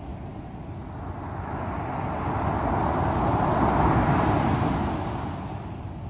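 Sea waves breaking on the shore over a constant low rumble of surf; one wave surges in, loudest about four seconds in, then washes back down.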